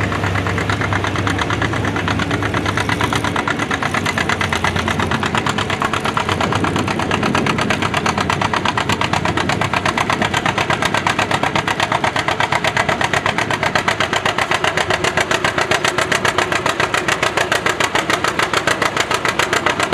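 Antique farm tractor engine running hard under load, pulling the sled, with a loud, even beat of individual firing pulses.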